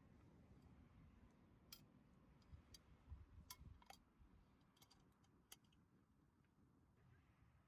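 Faint crackling of a wood campfire: a few sharp pops and snaps at irregular intervals, clustered in the middle, over a low background rumble.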